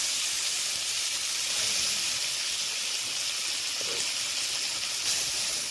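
Potato sticks and sliced onion frying in hot oil in a wok: a steady sizzle.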